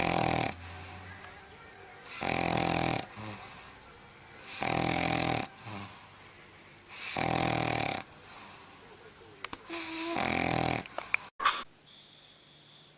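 A sleeping dog snoring loudly: five snores about two and a half seconds apart, each lasting under a second. The snoring cuts off abruptly near the end.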